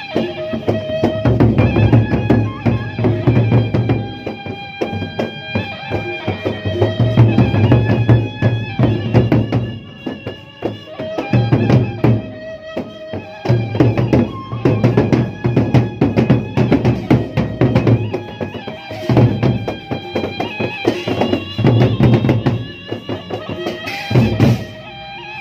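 Sasak gendang beleq ensemble playing: big drums beating dense, driving rhythms with cymbals clashing, while a bamboo suling flute and other pitched instruments hold sustained melody notes above.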